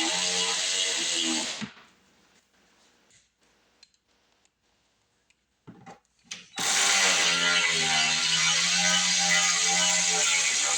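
Power drill driving machine screws, running in two long stretches: one that stops under two seconds in, and another from about six and a half seconds in. Its hum drifts a little in pitch as the load changes. In the quiet between there are a few faint clicks and handling sounds.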